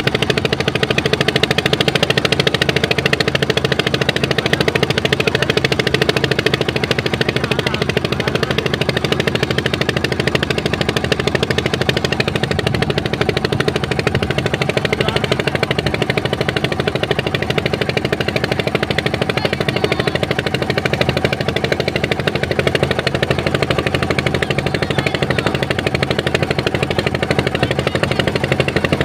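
River boat's diesel engine running steadily under way, a loud fast chugging with no change in speed.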